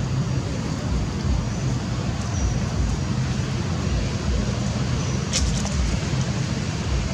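Steady low rumbling background noise, with a brief crackle about five seconds in.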